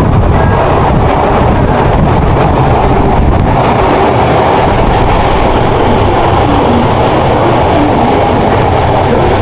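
Tokyo subway train running, a loud, steady rumble of wheels and motors, with a faint whine sliding up and down in pitch in the last few seconds.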